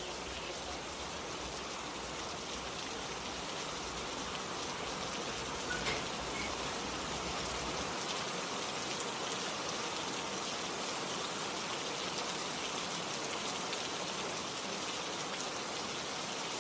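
Rain falling steadily, an even hiss of drops with no change in strength.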